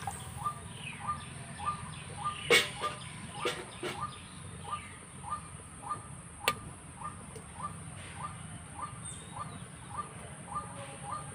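A bird repeats one short chirp over and over, a little under two a second. Utensils knock, loudest about two and a half seconds in, and there is a sharp metallic clink about six and a half seconds in as a metal steaming stand is set into the water-filled kadai.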